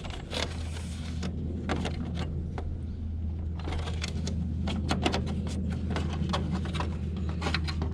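Scattered light clicks and knocks of a tower heater's plastic casing and internal wiring being handled and tugged, over a steady low hum.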